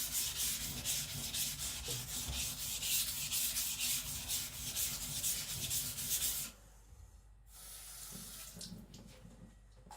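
A very hard AEB-L steel (HRC 66) knife blade scraped back and forth on a whetstone under heavy pressure, grinding away the shoulders of its hollow grind. The rhythmic gritty strokes stop about six and a half seconds in, followed by a fainter, shorter bout of scraping.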